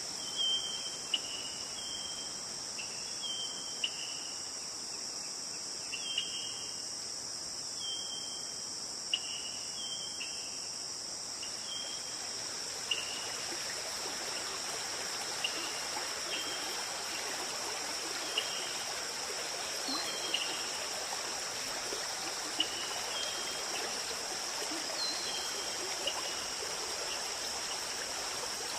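Forest stream flowing, the water growing louder partway through, under a steady high-pitched insect drone. Short chirps repeat about once a second.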